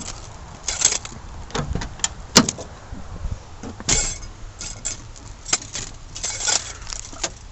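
Scattered clicks, knocks and rattles of handling in a pickup truck just before its engine is started, the sharpest about two and a half seconds in.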